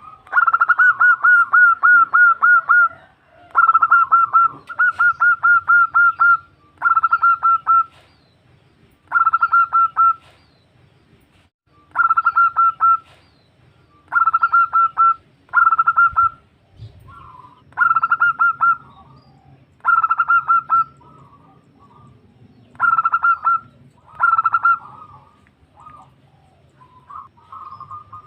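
Female zebra dove (perkutut) calling for a male: bursts of rapid, evenly repeated short cooing notes, each burst lasting one to three seconds and repeated after short pauses.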